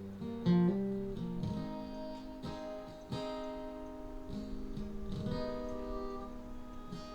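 Acoustic guitar playing the slow intro of a country ballad: single notes picked over strummed chords, with the bass notes changing every second or so.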